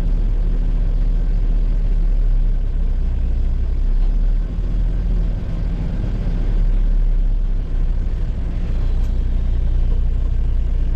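Heavy truck's diesel engine running steadily under way, a low drone with two brief dips in loudness, about four and a half and seven and a half seconds in.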